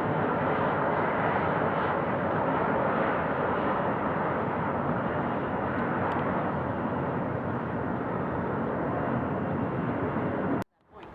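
Jet airliner engines at takeoff power: a loud, steady rushing roar that cuts off abruptly near the end.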